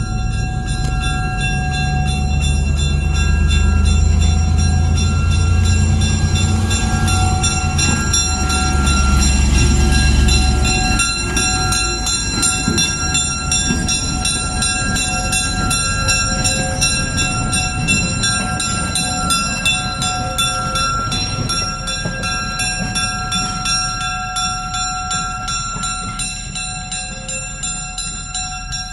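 A train passes a grade crossing while the crossing's warning bell rings fast and steadily. A deep locomotive engine rumble is loudest over the first ten seconds or so; after that the wheels clatter over the rails and slowly fade.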